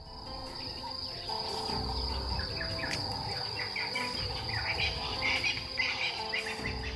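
Insects trilling in a steady high chorus, with short chirping calls scattered over it.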